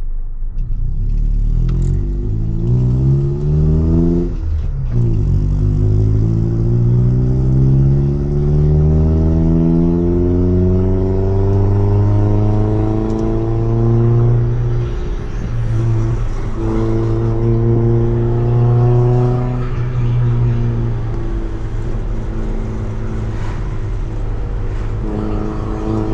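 Honda EF Civic's D15B1 four-cylinder engine pulling through a Tanabe Revel Medallion Touring S aftermarket exhaust. It accelerates with revs rising, drops revs in a gear change about four seconds in, then makes a long climbing pull. It settles to a steady cruise with brief lifts off the throttle, and revs rise again near the end.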